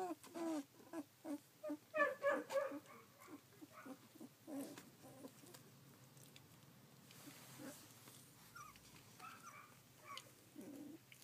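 Newborn rough collie puppies whimpering in short, high, repeated calls, about three a second at first and loudest about two seconds in. The calls thin out, leave a quieter stretch, then a few more come near the end.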